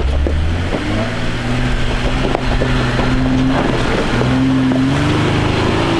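Off-road truck engine running under load on a rocky trail, its revs rising in steps about a second in and again near the end, with wind noise on the microphone.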